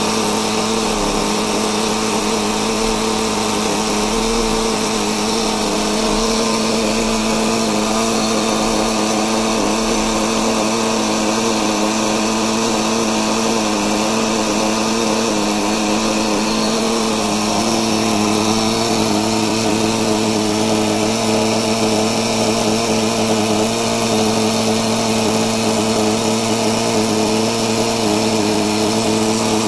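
Small nitro glow engine of a 1/5-scale RC motorbike running at a steady speed with an even, unchanging pitch.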